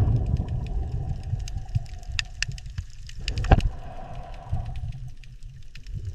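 Underwater ambience: a steady low rumble with scattered sharp clicks and pops, the loudest about halfway through.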